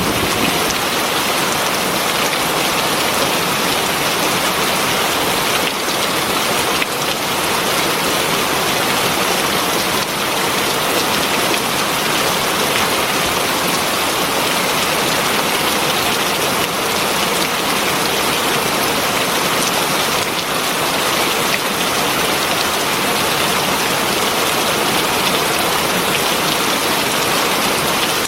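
Heavy rain falling steadily, an even, dense hiss that holds level without breaks.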